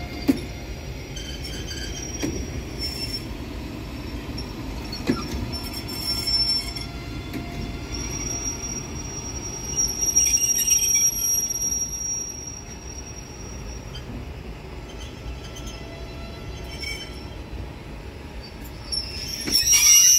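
PKP ED72A electric multiple unit rolling slowly on a shunting move, its wheels clicking now and then over rail joints, with a thin high squeal from the wheels and brakes. Near the end comes a loud brake squeal as the unit brakes to a stop.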